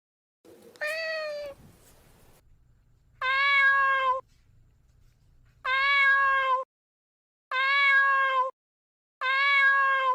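Domestic cat meowing five times, each meow about a second long; the last four are alike and evenly spaced.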